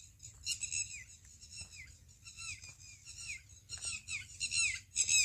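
Small birds chirping: many short, high chirps, each falling in pitch, repeating a few times a second.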